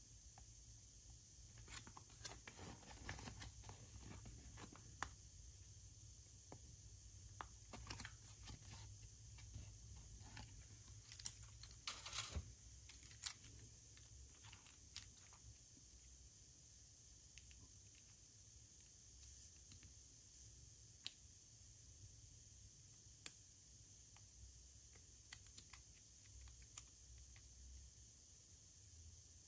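Faint handling of packaging: scattered crinkles, small tearing sounds and light clicks, with a brief louder burst of tearing and crackling about eleven to thirteen seconds in, then only a few isolated ticks.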